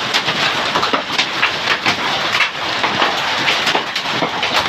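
Hailstorm: hailstones and rain pelting down, a dense, steady clatter of many sharp hits.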